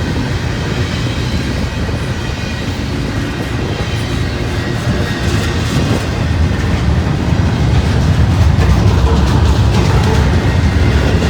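A train rolling past on the track: a steady rumble of wheels on rail with a clickety-clack of rail joints, growing louder over the last few seconds.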